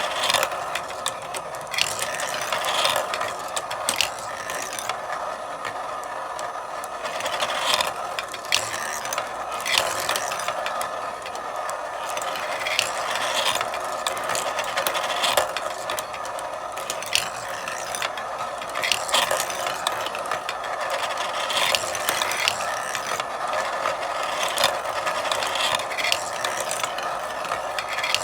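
Marbles rolling and clattering along a marble run's tracks, a continuous rolling rattle with frequent sharp clicks as marbles knock against the track and each other.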